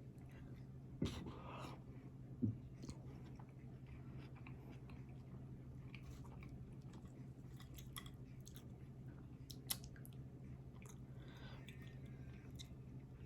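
Close-miked chewing of a burger and fries: soft wet mouth sounds with scattered crackles and a few sharper clicks, over a steady low hum.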